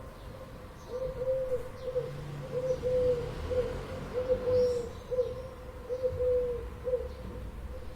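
An animal calling: a low, steady-pitched call repeated four times, each a longer note followed by a short one, about every second and a half.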